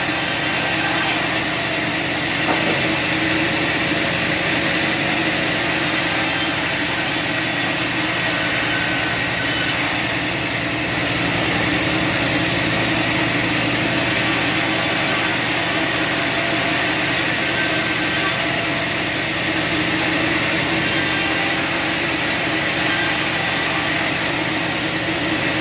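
Bandsaw sawmill cutting through a log: the band blade and its motor running steadily through the cut.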